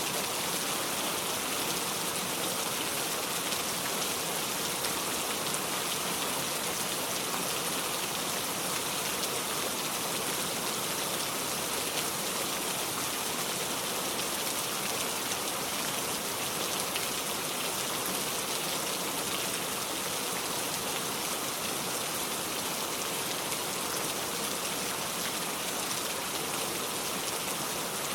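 Steady rain: an even, unchanging hiss of falling rain with no thunder.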